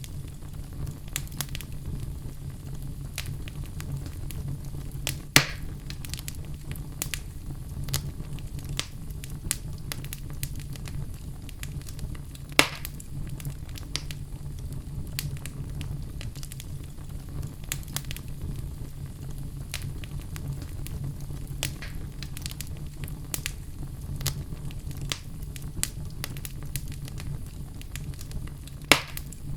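Fire in a fireplace crackling, with frequent small snaps over a steady low rumble. Three louder pops stand out: about 5 seconds in, about 12 seconds in and near the end.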